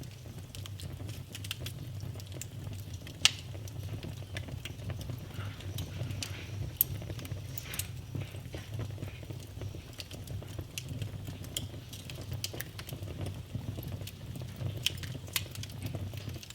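Wood fire in a fireplace crackling: scattered snaps and pops over a low steady rumble of the flames, with sharper pops about three seconds and about seven seconds in.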